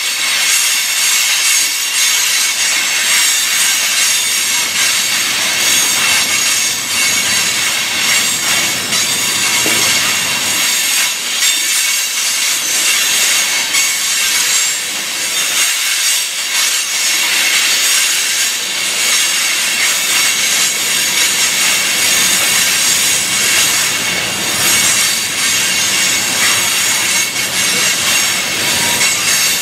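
Loaded open-top gondola cars of a freight train rolling steadily past at close range: a continuous loud rattle and hiss of steel wheels on the rails, with steady high-pitched wheel squeal over it.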